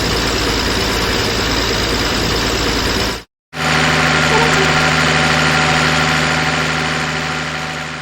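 Engine idling steadily, in two takes split by a sudden gap of silence about three seconds in; the second take has a deeper steady hum and fades toward the end.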